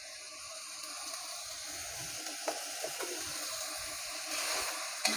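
Chili paste sizzling in a wok as boiled eggs are turned through it with a metal spatula, with a few light clicks of the spatula against the pan.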